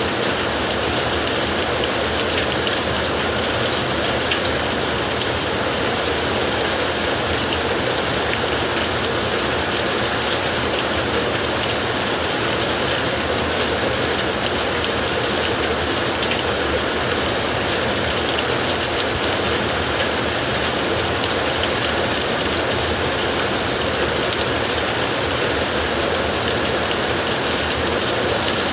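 Heavy rain falling steadily on a tin roof, a dense unbroken patter of drops.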